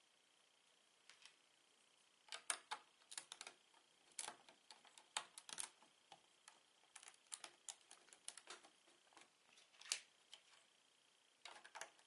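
Plastic Lego bricks being handled and snapped together: sharp, light clicks and taps in quick irregular clusters.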